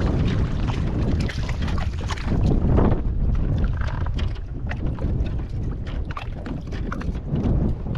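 Wind rumbling on the microphone, with many small clicks and knocks over it.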